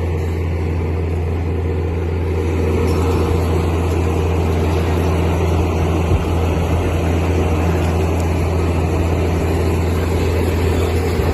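Engine idling: a steady, deep, even hum that does not change in pitch, with one small knock about six seconds in.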